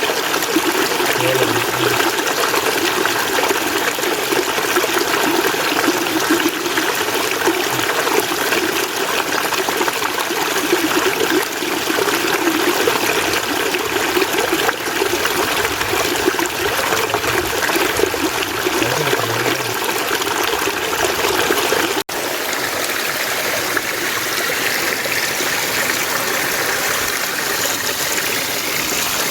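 Mountain stream water running and splashing over rocks, a steady rushing flow. About two thirds of the way through there is an abrupt cut to a slightly lighter, thinner stretch of flowing water.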